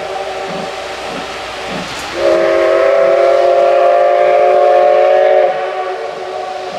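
Steam locomotive whistle of the SL Ginga's C58 239 sounding a chord of several tones. An earlier blast dies away at the start, then one long blast of about three seconds begins about two seconds in and cuts off cleanly.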